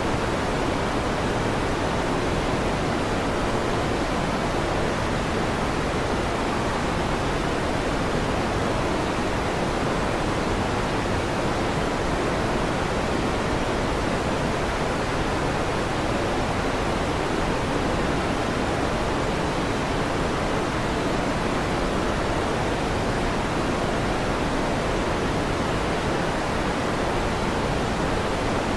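Electric fan running steadily, an even whooshing noise that does not change, with no thunderclaps.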